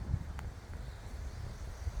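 Wind rumbling on the microphone, with a faint click about half a second in and a short high bird call starting at the very end.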